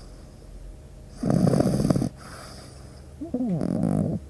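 Labrador retriever snoring in its sleep: one loud, rasping snore about a second in, then a short pitched exhale that bends up and down in pitch near the end.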